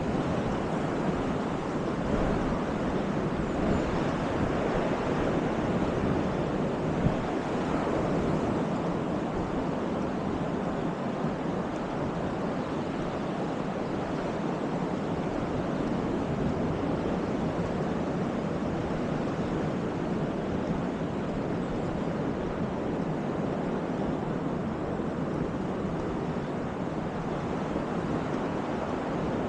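Baltic Sea surf washing steadily onto the beach, with wind. A short click about seven seconds in.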